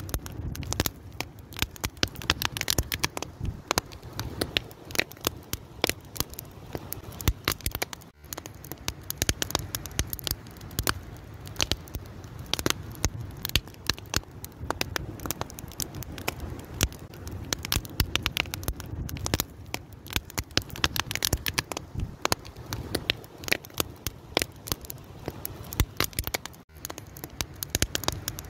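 Fire crackling: a dense, irregular run of sharp pops and snaps over the low, steady rush of the flames.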